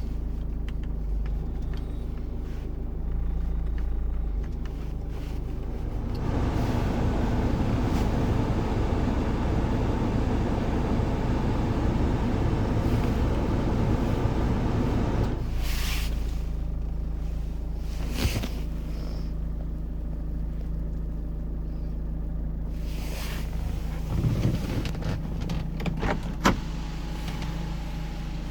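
GM Daewoo Winstorm SUV engine running steadily, louder for several seconds in the middle, with a few sharp clicks and knocks in the second half.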